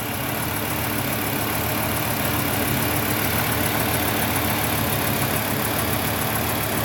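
Volvo 850 T5's turbocharged 2.3-litre five-cylinder engine idling steadily and warm, running close to normal once its leaking vacuum hoses are replaced.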